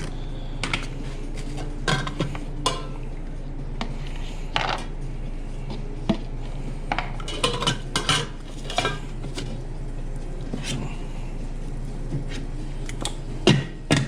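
Kitchen clatter of dishes and metal utensils: irregular knocks and clinks, a few sharper ones near the end, over a steady low hum.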